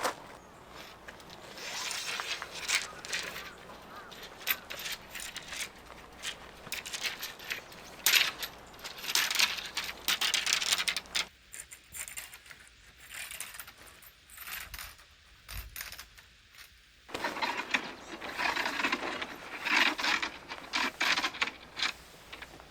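Small metal objects clinking and rattling amid rustling handling noises, in irregular bursts, with a quieter stretch in the middle.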